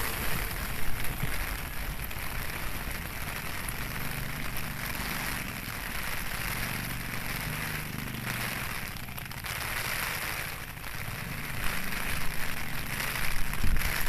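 Steady hiss of rain falling on the station's tracks and platform, with a low rumble underneath. A departing electric train's sound dies away at the start, and irregular louder bumps come near the end.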